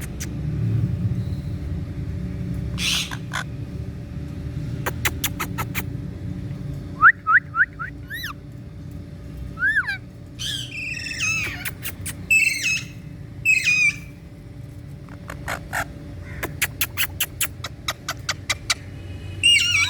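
Indian ringneck parakeet calling: short squawks, rising whistled notes and quick runs of sharp chirps, with gaps between them. A steady low hum runs underneath.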